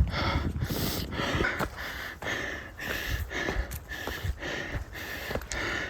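A hiker breathing hard while climbing a steep mountain trail: rhythmic, about two noisy breaths a second.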